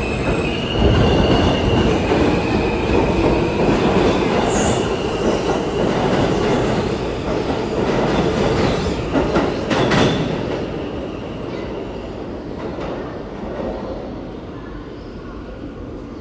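R160 subway car riding on the track, with steady rumble and rattle and high wheel squeal during the first few seconds. A couple of sharp clacks come near the middle, and the noise grows quieter over the last several seconds.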